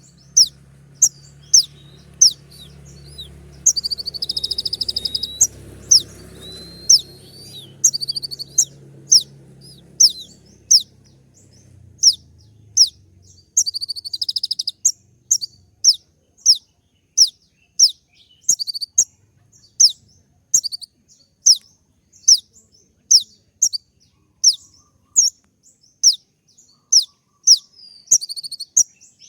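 Kolibri ninja (konin), a sunbird, singing a 'tembak' (shooting) song: sharp, high, downward-flicking notes repeated about twice a second, broken twice by short buzzy trills.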